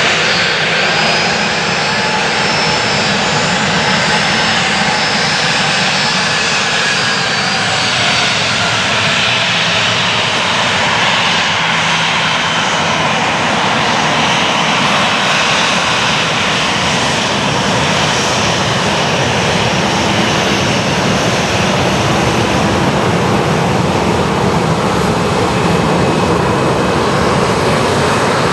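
Boeing 737-600 jet engines running loud as the airliner lands. A whining tone in the engine noise falls slowly over the first several seconds.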